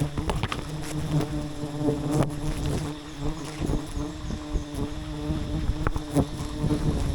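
Swarm of honeybees buzzing around a wild hive: a steady, even hum, with scattered short clicks and knocks over it.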